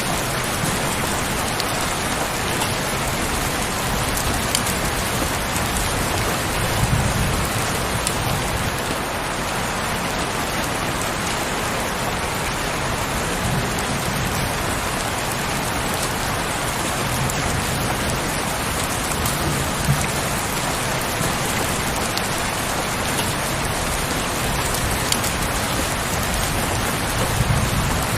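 Heavy rain falling steadily, a dense even hiss with occasional sharper drop ticks. Soft low rumbles swell and fade every six or seven seconds beneath it.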